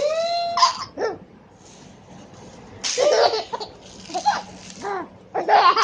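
Five-month-old baby laughing: one long laugh at the start, then a run of short laughing bursts after a short pause.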